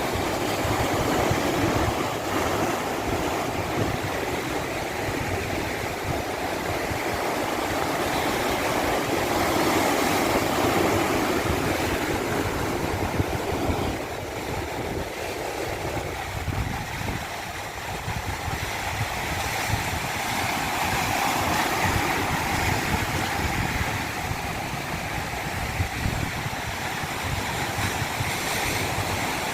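Flowing stream water, a steady rush that slowly swells and eases.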